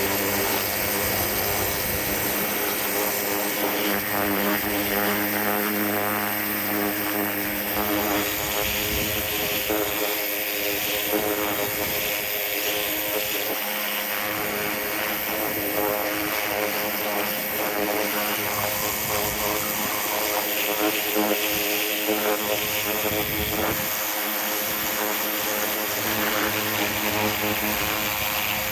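Power washer running steadily with a constant drone and the hiss of its water jet as it cleans rusty engine parts.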